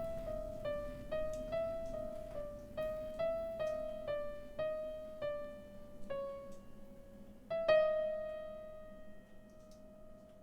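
Solo piano playing a slow melody of single notes in a high register, then a louder final note about three-quarters of the way through that rings on and fades away.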